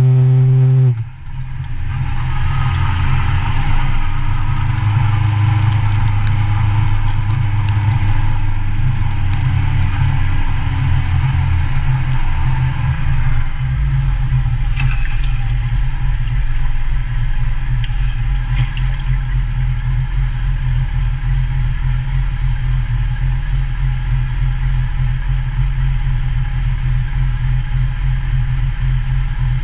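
Motorcycle engine: the throttle closes sharply about a second in and the engine note falls as the bike slows, then it settles into a steady low idle from about halfway on.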